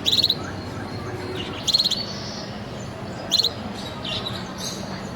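Gloster canaries chirping: three loud, short, rapid trills, one at the start, one just under two seconds in and one about three and a half seconds in, with softer chirps between them.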